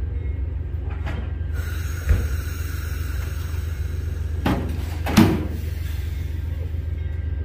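Freight train's steady low rumble, broken by a few sharp metallic clanks about two, four and a half and five seconds in.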